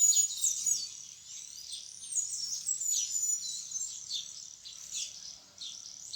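Several small birds chirping and calling in quick, high, falling notes, busiest in the first second and then sparser. The man filming takes these calls for one bird calling its companion to come and eat the bread.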